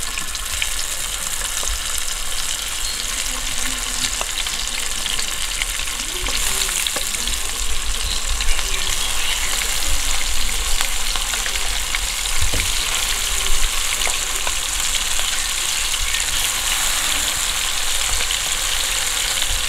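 Masala-coated green mussels shallow-frying in hot coconut oil in a nonstick pan: a steady high sizzle, with a few light clicks along the way.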